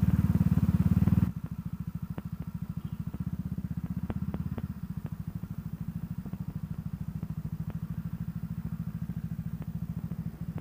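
CCM Spitfire's single-cylinder engine running. It is loud for about a second, then drops as the throttle closes, and carries on pulsing evenly at low revs as the bike rolls slowly up to the kerb. A few faint ticks sound over it.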